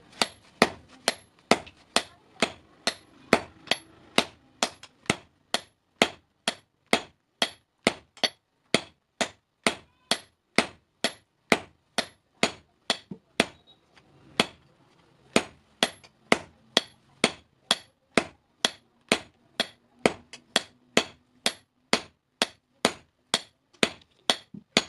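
Hand hammer striking steel on an anvil in a steady rhythm, a little over two blows a second, each with a short metallic ring, while forging a hasua sickle blade. The blows pause briefly about halfway through.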